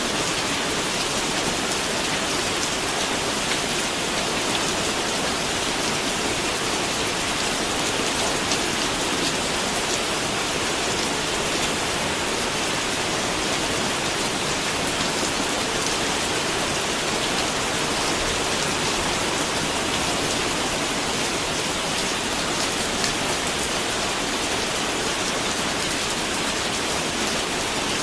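Steady rain falling, an even hiss with small drops pattering on a surface.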